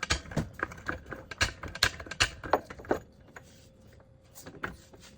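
Metal clicks from the car jack and jack stands being worked under a car, about two a second for three seconds, then stopping, with a few faint taps after.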